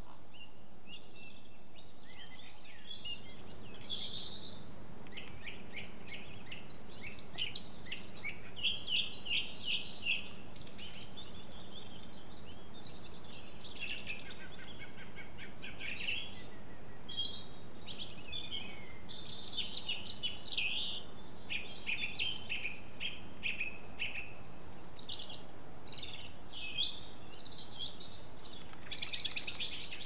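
Several songbirds singing and calling in a steady run of chirps and trills, loudest about seven seconds in, with a short buzzy burst near the end, over a faint steady background hiss.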